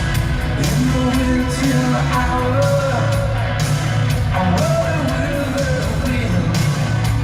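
Live hard rock band playing, with a sung lead vocal over guitars and drums.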